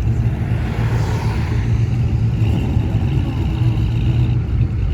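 Classic car engines rumbling steadily as cars cruise past, one passing louder about a second in.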